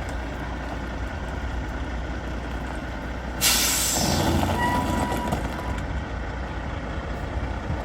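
Kenworth tandem-axle road tractor's diesel engine idling, with a sudden sharp burst of air brake hiss about three and a half seconds in, followed by a short high tone.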